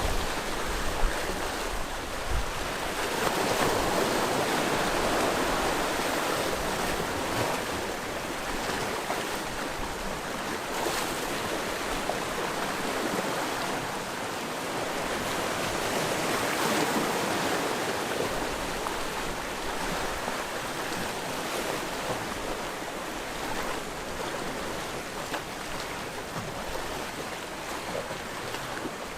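Sea waves washing onto the shore in a steady rush that rises and falls, with two louder surges, a few seconds in and again a little past halfway.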